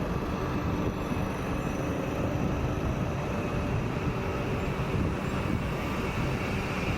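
A train moving along the platform track: a steady rumble of wheels on rails, with faint whining tones above it.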